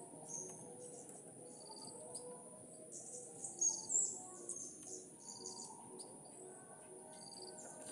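Sooty-headed bulbuls (kutilang) calling in short chirps and whistled notes, loudest about three and a half to four seconds in, over a steady high-pitched insect drone.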